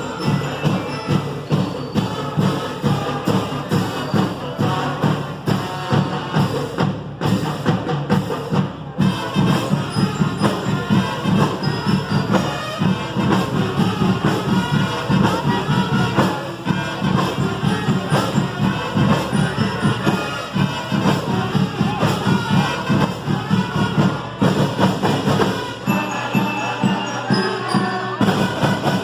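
Marching band playing: a driving drum beat with percussion and sustained instrument tones over it.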